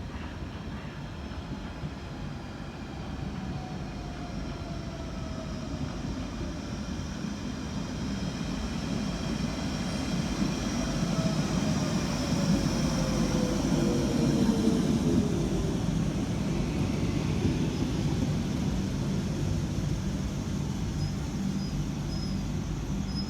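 London Underground Central line train (1992 Stock) pulling into the platform, its motors whining downward in pitch as it slows, louder in the middle as the cars pass. It comes to a stand with a steady hum, and a few short high beeps sound near the end.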